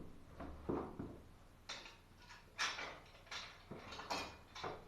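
Faint handling noises: a series of short scrapes and light knocks as valve fittings are moved about and set down.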